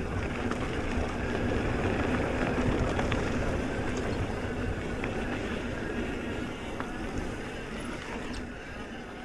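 Mountain bike rolling along: tyre rumble and wind rush on the camera's microphone, with small clicks and rattles and a faint steady hum, easing off slightly near the end.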